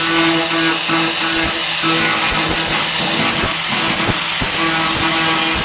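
Angle grinder running, a steady whine over a hiss, its tone breaking up several times as the wheel is worked against the body filler and sheet steel of a pickup's wheel arch.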